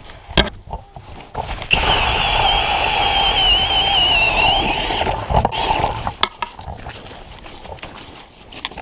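Power ice auger drilling a hole through pond ice, running hard for about three seconds with a wavering whine, then winding down. Sharp knocks come before and after it.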